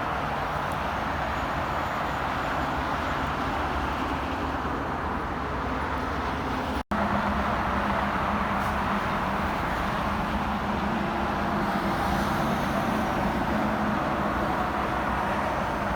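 Steady highway traffic: the tyre and engine noise of vehicles on an interstate. A sudden brief dropout comes about seven seconds in, after which a steady low engine drone from a passing vehicle is heard.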